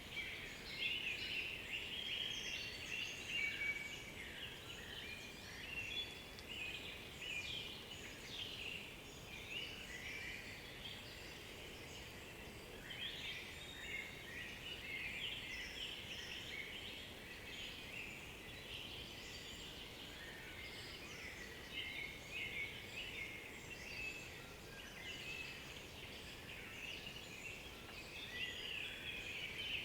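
A chorus of several songbirds singing at once in a woodland: many short, overlapping chirps and trills follow each other without a break, over a faint steady background hiss.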